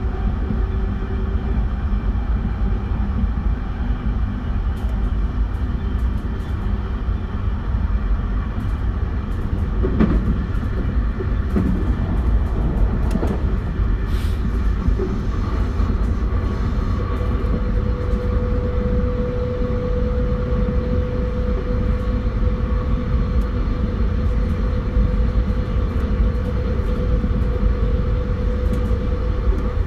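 Running noise of a JR West 271 series electric train with Hitachi SiC inverter traction, cruising at speed: a steady rumble of wheels on rail with a few knocks around the middle. A steady hum from the traction equipment comes in about two-thirds of the way through.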